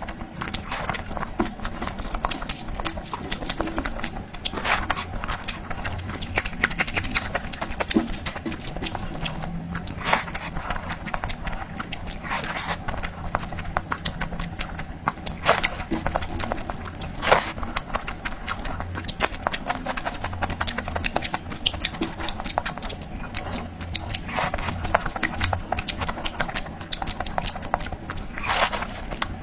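Close-up eating sounds: chewing and crunching, with many irregular sharp clicks and smacks.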